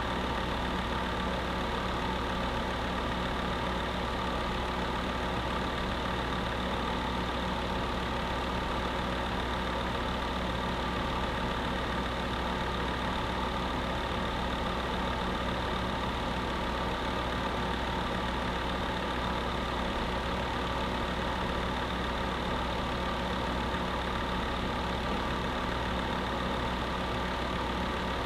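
Space heater running steadily: an even rush of blown air with a constant motor hum under it, unchanging throughout.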